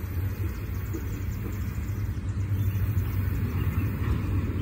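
Freight train of intermodal container cars rolling past on the rails, a steady low rumble.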